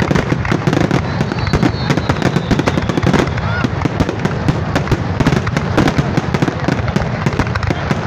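Aerial firework shells bursting in a dense, rapid barrage, with bang after bang overlapping and no pause between them.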